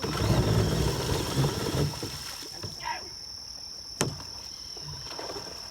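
Loud splashing and churning of water as the drill-driven tub boat thrashes in the pond, dying down after about two seconds, with one sharp knock about four seconds in. A steady high buzz of insects runs underneath.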